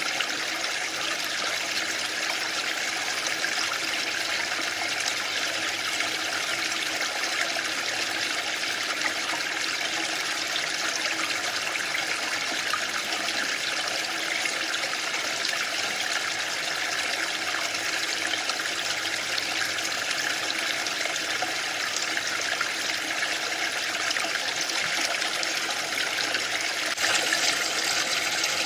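Waterfall: a steady rushing of falling water, a little louder near the end.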